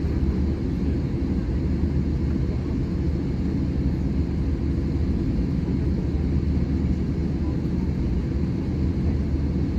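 Steady low rumble of an Airbus A320-200's engines and airframe heard from inside the passenger cabin, holding an even level throughout.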